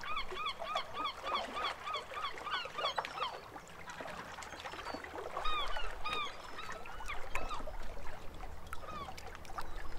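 Birds calling: a fast run of repeated rising-and-falling notes, about four a second, for the first three seconds, then scattered calls and chirps.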